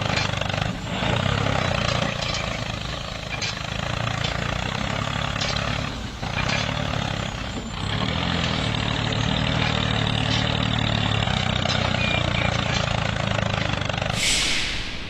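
An engine-like motor runs steadily with a low hum, and faint clicks come and go. A short hissing whoosh comes near the end.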